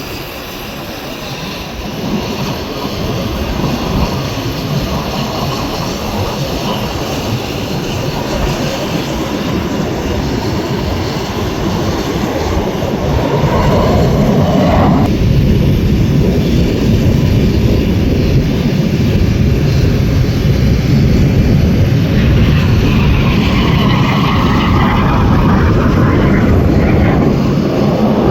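Jet noise from the Aermacchi MB-339 jet trainers' turbojets as the aircraft fly low past. The whine drops sharply in pitch about halfway through as they go by, and it grows louder afterwards, with another whine rising near the end as more jets approach.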